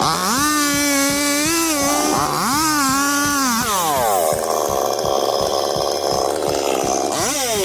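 Chainsaw revving, its pitch climbing and dropping twice. From about four seconds in it holds at full throttle, cutting into wood, and revs up again near the end.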